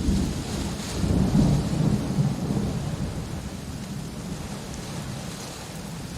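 Steady rain hissing, with a low rumble of thunder that swells about a second in and dies away over the next few seconds.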